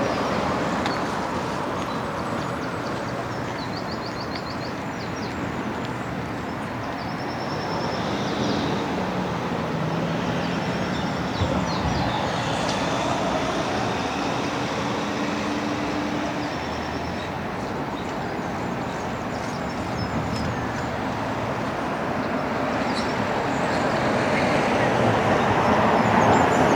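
Outdoor city ambience: a steady hum of road traffic with people talking nearby and a few short high chirps, growing louder near the end.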